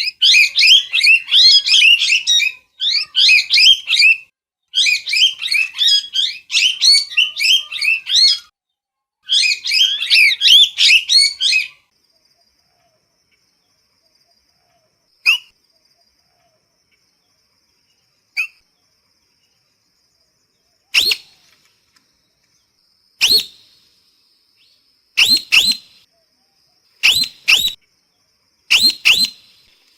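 Parrot calling: rapid, high-pitched chattering in bursts for the first twelve seconds, then a pause broken by two short calls, then loud sharp squawks about every two seconds.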